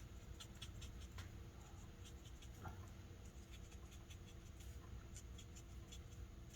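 Faint, short scratchy strokes of a Stampin' Blends alcohol marker's tip colouring on cardstock.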